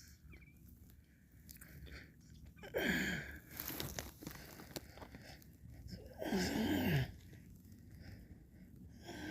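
Close-miked mouth sounds of eating ice cream: wet licking and slurping. Two louder slurps come about three and six seconds in, each sliding down in pitch.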